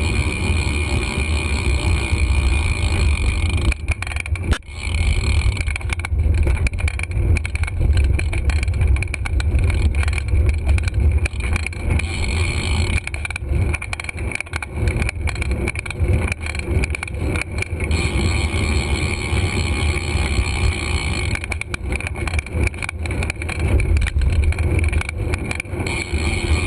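Wind buffeting a GoPro's microphone on a moving bicycle, a steady low rumble, with rattles and knocks from the bike jolting over the road at times.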